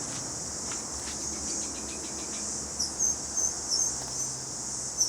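Steady high-pitched chorus of insects, like crickets, with a few short high bird chirps in the second half.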